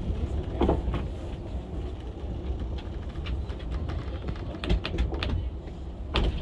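Funicular cliff railway car running along its track, with a steady low rumble and scattered sharp clicks and knocks.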